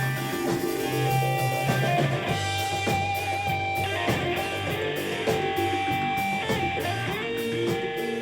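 Jam-band music led by electric guitar, with sustained notes over a held bass line and a steady beat of light ticks.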